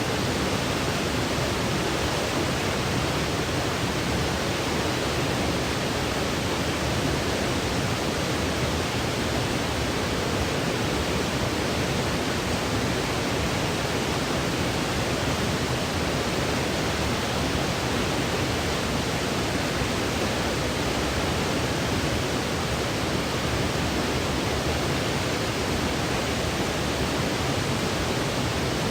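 Steady, even electronic noise: a continuous hiss with no rhythm or changes, the white noise used to lull a baby to sleep.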